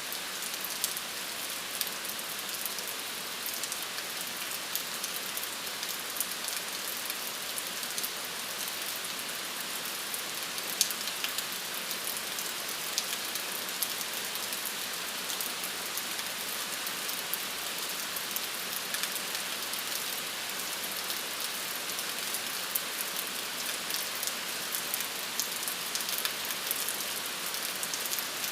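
Steady rain falling, with many individual drops ticking throughout.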